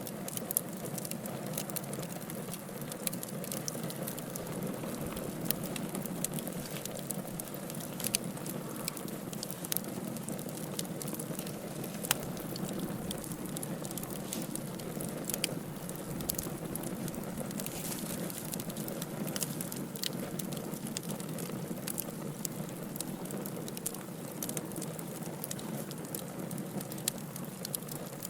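Wood fire burning in a fireplace: a steady low hiss and rustle of the flames, with frequent small sharp crackles and pops from the burning logs scattered throughout.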